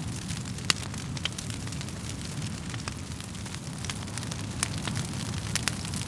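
Wood fire burning in a fireplace: irregular sharp crackles and pops over a low, steady rumble of flames, with one louder pop under a second in.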